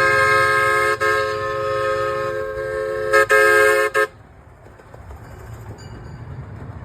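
A miniature railway train's whistle sounding a long chord of several pitches, with two brief breaks, then cutting off sharply about four seconds in. After that comes the low rumble of the train running.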